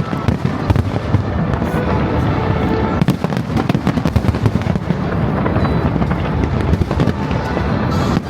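Aerial fireworks going off in a dense, continuous barrage: many overlapping booming bursts and crackles with no let-up.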